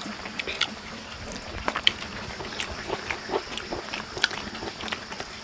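People eating at close range: irregular wet smacks and clicks of chewing and lip-smacking, over a steady faint high-pitched background hum.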